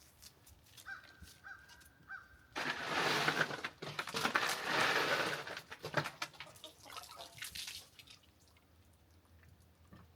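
Water sloshing and splashing in an ice chest of ice water as a whole chicken is lifted out. The splashing comes in two bursts that together last about three seconds, starting a little over two seconds in, and is followed by fainter dripping and rustling.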